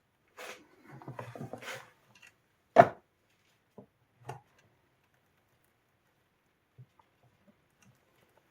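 Handling noises on a work surface: about a second and a half of scuffing and rustling, then a single sharp knock just under three seconds in, the loudest sound, followed by a few soft taps and clicks.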